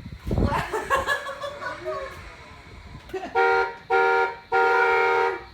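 Horn of a children's electric ride-on toy car honking three times in quick succession, each a steady electronic beep, the last one longest.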